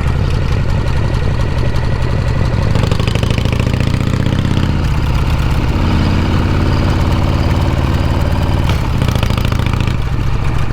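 Harley-Davidson Shovelhead V-twin exhaust, running steadily, with the engine note rising and falling between about three and six seconds in.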